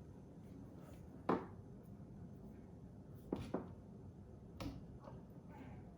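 A few short, sharp knocks and clicks, about four in all and one close pair, from hard objects being handled, over quiet room tone.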